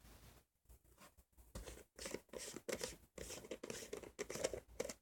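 Elmer's Glue-All slime being handled, squished and stretched by hand, giving an irregular run of crackling and clicking sounds that grows busier about a second and a half in.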